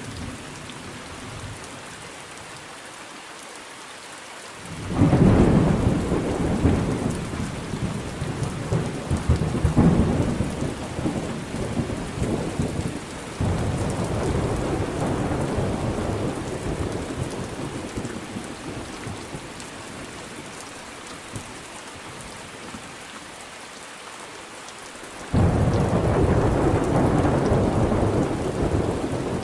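Thunderstorm: steady rain with two rolls of thunder. The first breaks suddenly about five seconds in and rumbles on in swells for about fifteen seconds before fading. The second breaks suddenly near the end.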